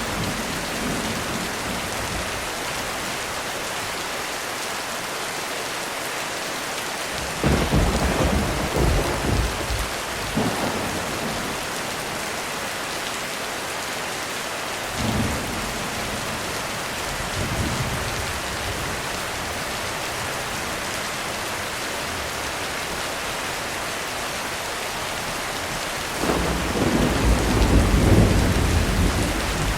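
Heavy rain falling steadily, with thunder. A sudden clap and rumble come about a quarter of the way in, two fainter rolls follow in the middle, and a long, heavier rumble builds near the end.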